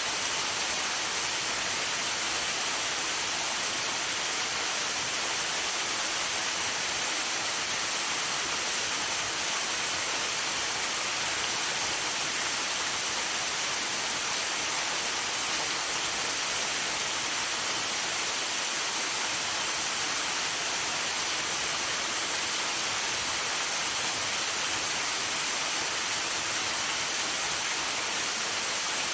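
Waterfall rushing in a steady, unbroken hiss, brightest in the high range.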